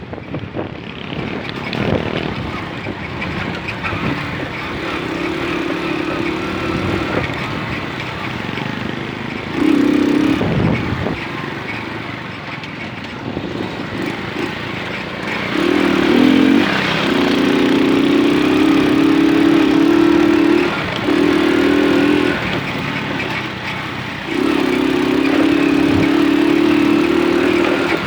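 Moped engine running while riding. Its steady note comes and goes in spells over a continuous rushing noise and is loudest in the second half.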